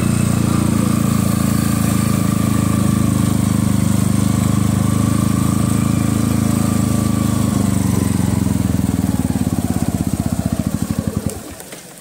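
Motorcycle engine running at low revs while riding slowly. Its firing audibly slows over the last few seconds, and the sound cuts off sharply about eleven seconds in.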